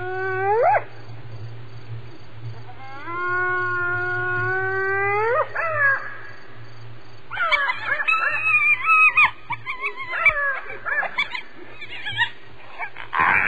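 Spotted hyena whoops: two long calls that each slide sharply upward at the end, then from about seven seconds in a tangle of wavering, overlapping calls, over a low steady hum.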